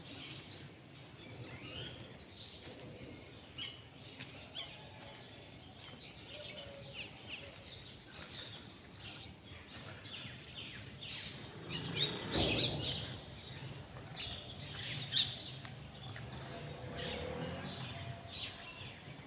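Small birds chirping and twittering throughout, with a few louder sharp sounds clustered about two-thirds of the way through.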